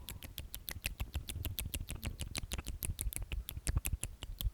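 Close-miked ASMR mouth sounds: a fast, steady run of wet tongue and lip clicks, about eight to ten a second.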